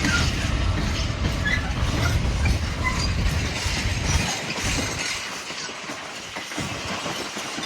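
Train running on the track, a heavy low rumble that drops off sharply about four seconds in, with faint short squeaks from the wheels higher up.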